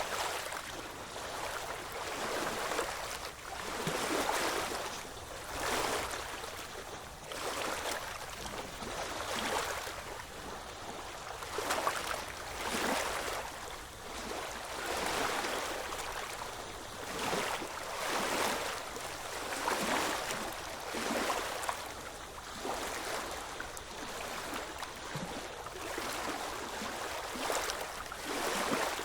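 Ocean waves washing in and lapping at the shore, one surge of water every second or two.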